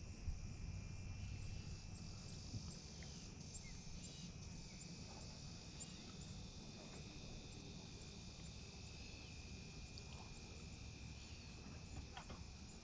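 Faint insects chirring: a steady high drone with light ticks about twice a second, over a low rumble.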